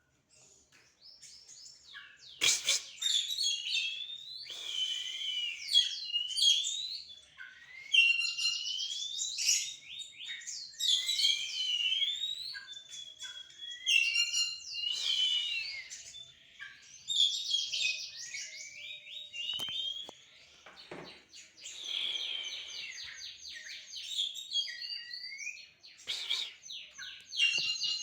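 Oriental magpie-robins (kacer) singing against each other: loud, varied whistled phrases that sweep up and down, mixed with fast trills, in bursts with short pauses, starting a couple of seconds in.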